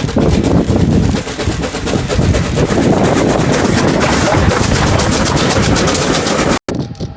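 USATC S160 2-8-0 steam locomotive working hard: loud, rapid, even exhaust beats. The sound cuts off abruptly about six and a half seconds in, leaving quieter wind noise.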